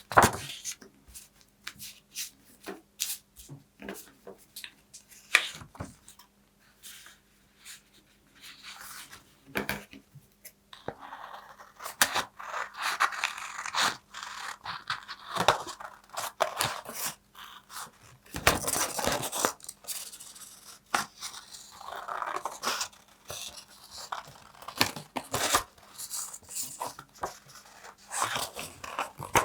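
Paper handled close to the microphone: a run of crisp snips and clicks, with longer stretches of tearing and crinkling.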